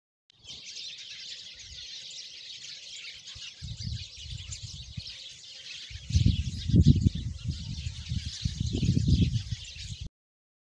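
Birds chirping in a dense, steady chorus. Under it runs an irregular low rumble that grows loudest from about six seconds in, and both cut off suddenly just before the end.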